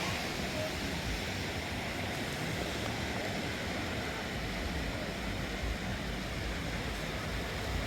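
Steady wash of sea surf on a sandy beach, an even rushing noise without distinct events, with a low uneven rumble underneath.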